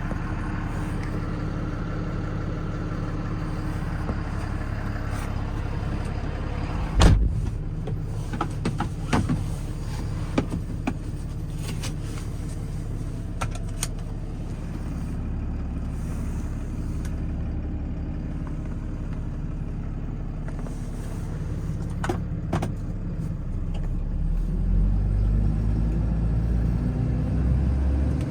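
Cummins 6.7-litre inline-six turbo diesel in a 2015 Ram 5500 idling steadily, with one loud thump about seven seconds in and a few lighter clicks and knocks after it. The engine note rises near the end as the truck is set moving.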